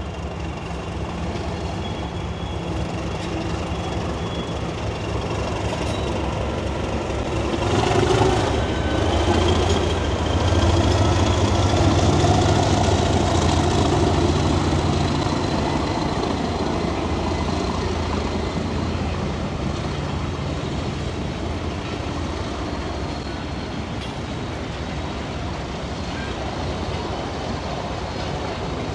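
Class 37 diesel locomotive's English Electric V12 engine working as it hauls a goods train past, its drone growing loudest about eight seconds in and easing off again, with a faint high turbocharger whistle; the wagons then roll by.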